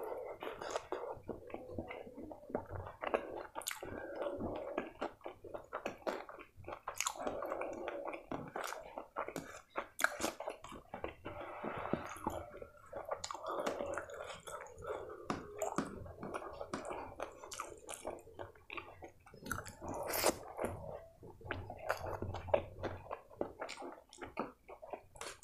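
Close-miked chewing of white rice and spicy chicken kosha curry, with many wet mouth smacks and sharp clicks.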